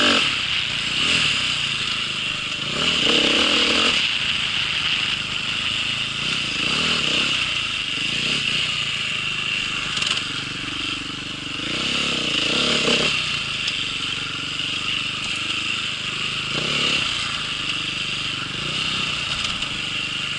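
A small vehicle's engine running under way, its pitch rising and falling again and again with the throttle, over a steady hissing rush.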